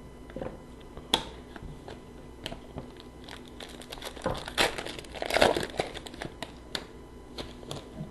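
Trading card pack wrapper crinkling and cards being handled, with scattered light clicks and rustles that are busiest about four to six seconds in.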